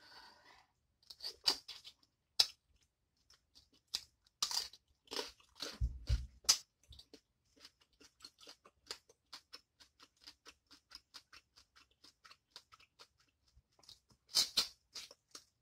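Close-up eating sounds of a person biting and chewing a spicy boiled head-on shrimp: crunchy, wet mouth clicks, irregular and louder in the first few seconds, then a steady run of small chewing clicks about three a second. A louder cluster of mouth sounds comes near the end as her fingers go to her mouth.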